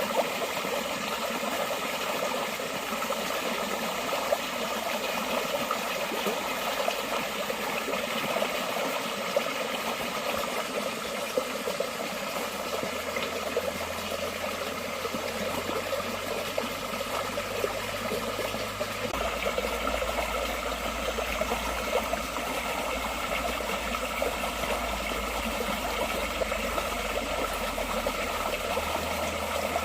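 Forest stream flowing steadily, with a constant rush and small trickling splashes.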